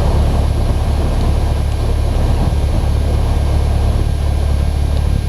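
Cessna 152's four-cylinder engine and propeller running at a steady low drone, heard inside the cockpit.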